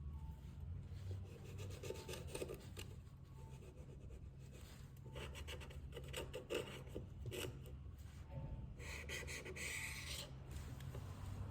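Small repair tools scraping and rubbing on an iPhone XR during a battery replacement, in short irregular strokes with one longer scrape near the end.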